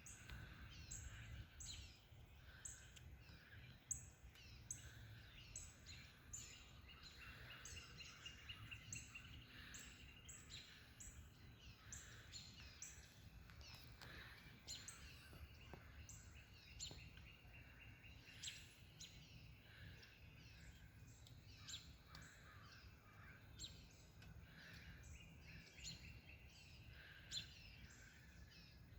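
Small birds chirping faintly: short high notes that drop in pitch, repeated about once or twice a second, with lower calls mixed in over a low steady rumble of outdoor noise.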